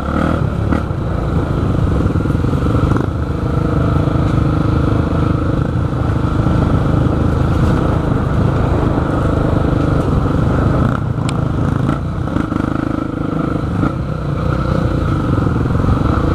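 Motocross dirt bike engine running steadily under way on a trail, with a single sharp click about eleven seconds in.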